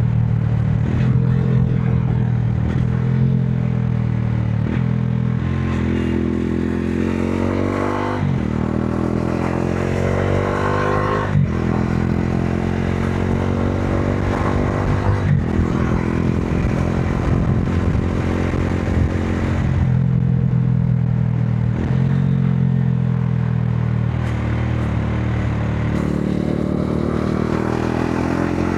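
Modenas Dominar 400's single-cylinder engine running under way. It accelerates up through the gears, its pitch climbing and then dropping sharply at each of three quick upshifts, before settling into steady running with an easing-off partway through.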